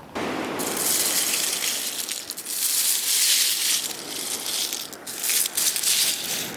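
Loud, close crunching and rattling of loose shell grit, with scattered clicks, starting and stopping abruptly.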